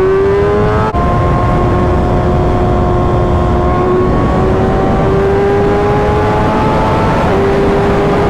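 Kawasaki Ninja ZX-6R's 636 cc inline-four engine accelerating while riding. The pitch climbs, drops briefly about a second in at an upshift, then pulls steadily higher, with wind rush behind it.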